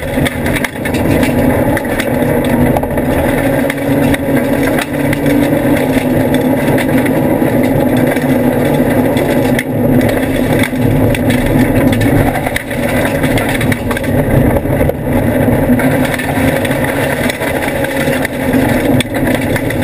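Mitsubishi FTO's engine running hard under sprint driving, heard from inside the stripped cabin. The engine note dips briefly a few times.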